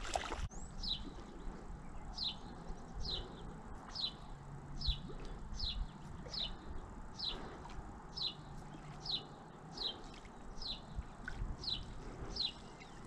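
A bird repeating one short, high chirp that slides downward, evenly spaced a little under a second apart, about fourteen times. A brief loud burst of noise comes right at the start.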